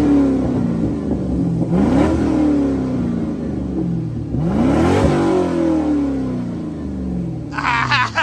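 2005 Corvette's LS2 V8 with the mufflers deleted, revved hard: the first rev is falling back as it starts, then two more sharp revs about two and five seconds in, each climbing fast and dropping back slowly. Voices break in near the end.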